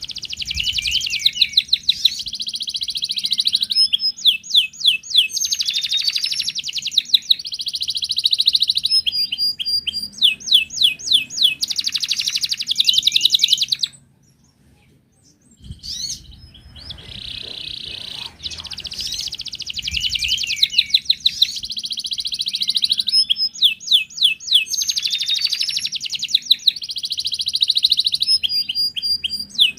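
Wild canary singing a long, fast song of trills and rolls of rapidly repeated high notes. It breaks off for about a second and a half near the middle, then starts again.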